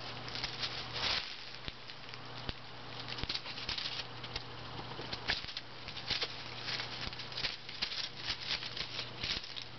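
Two eight-week-old kittens wrestling: quick, irregular scuffling and pattering of paws and bodies, in many short bursts. A faint steady low hum runs underneath.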